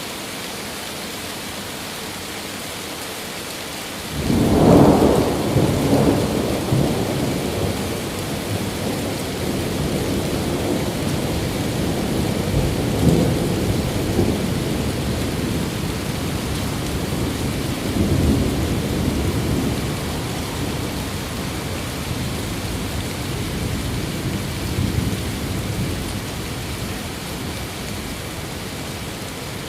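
Steady rain, then about four seconds in a deep roll of thunder breaks in suddenly. It rumbles on with several further swells and slowly dies away under the rain.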